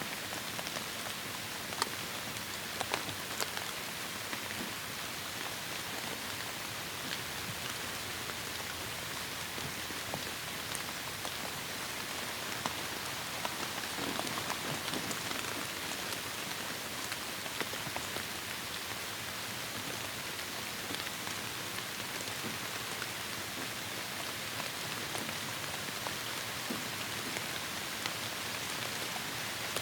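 Heavy rain falling steadily in a tropical forest: a constant hiss of rainfall with individual drops pattering sharply now and then.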